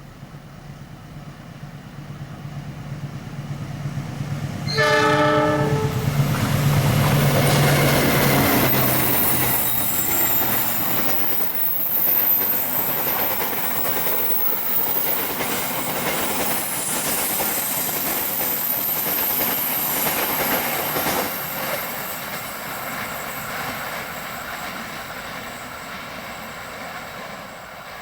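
Diesel-hauled train approaching and passing: the locomotive's engine drone builds, a short horn blast sounds about five seconds in, then the train rushes by with wheels clacking over the rail joints, fading near the end.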